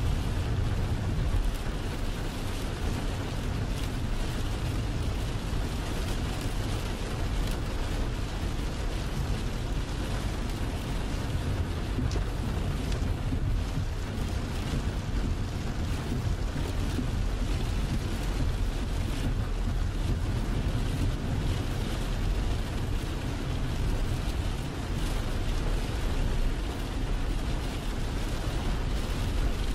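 Heavy rain hitting a semi truck's windshield and cab as many small ticks, over the steady low rumble of the truck and road, heard from inside the cab.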